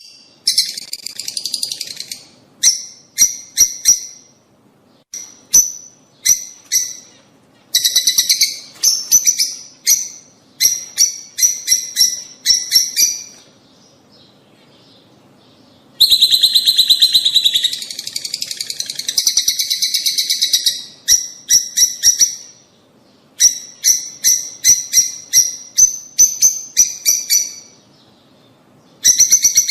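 Lovebirds chirping: quick runs of sharp, high-pitched chirps broken by short pauses, with a dense stretch of continuous chatter about halfway through. It is a breeding-stimulation call recording for rosy-faced and Fischer's lovebirds.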